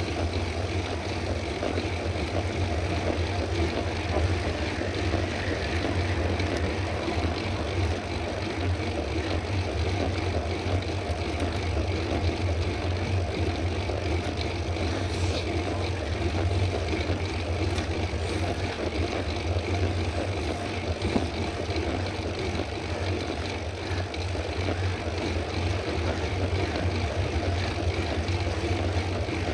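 Steady wind rumble on the camera's microphone from riding a mountain bike at speed, with road and rolling noise underneath.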